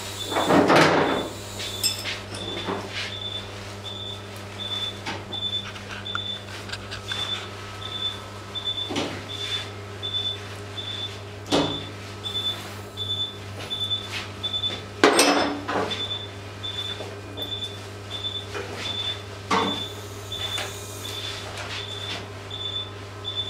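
Operating-room sounds: a steady low electrical hum under a short, high beep repeating about twice a second. Scattered clatters and knocks of handling come and go, the loudest about a second in and again about fifteen seconds in.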